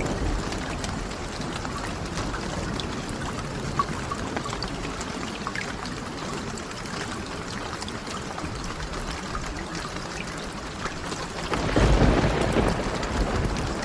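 Steady rain with scattered small crackles, and a low rumble of thunder swelling near the end.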